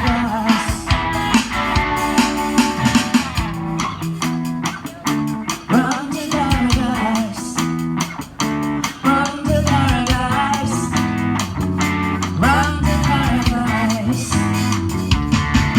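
Live rock band playing an instrumental passage: electric guitar lines over bass guitar and a drum kit.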